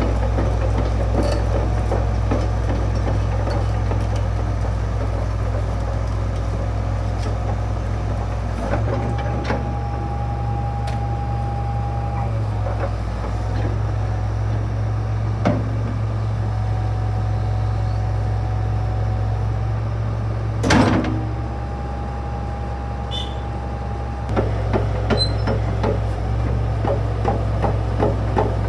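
Fiat-Hitachi EX355 tracked excavator's diesel engine running steadily. Its note shifts about nine seconds in and again near the end, while a steady whine comes in and drops out. Scattered clicks and one sharp knock come over the engine.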